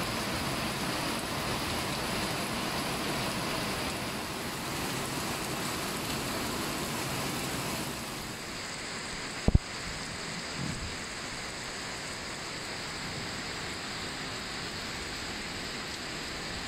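Steady rain falling on leaves and the ground. About eight seconds in the rain turns duller, and a moment later there is a single sharp knock.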